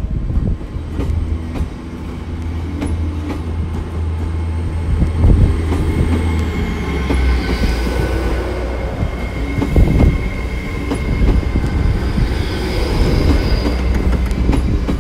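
GWR Class 800 bi-mode train, on its underfloor diesel engines, moving off along the platform: a steady low engine drone with high, steady whining tones over it, one of which drops in pitch about halfway through.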